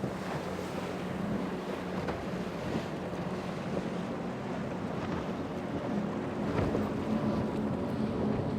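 Motorboat engine running at a distance, a low hum that grows a little louder near the end, with wind buffeting the microphone and the wash of waves.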